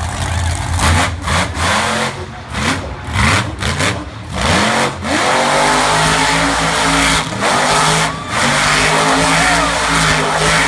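Monster truck's V8 engine revving: several quick rising blips of the throttle, then the revs are held high and steady with a short lift about eight seconds in.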